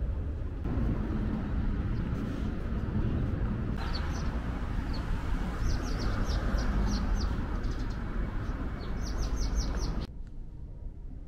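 Small birds chirping in quick, high runs over steady low outdoor background noise. The chirps come thicker just before the sound drops off sharply near the end.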